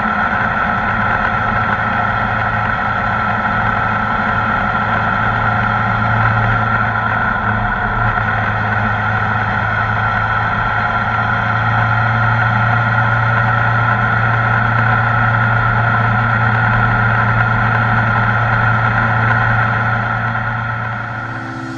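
Kawasaki ZR-7S motorcycle's air-cooled inline-four engine running steadily at an even pitch. It drops slightly in level near the end.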